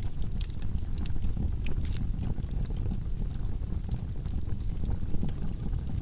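Wood fire of burning logs in a fireplace: a steady low roar of flames with frequent sharp crackles and pops.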